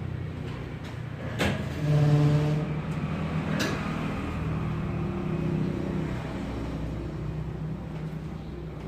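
A motor vehicle running with a steady low hum that swells briefly about two seconds in, with two sharp clicks about a second and a half and three and a half seconds in.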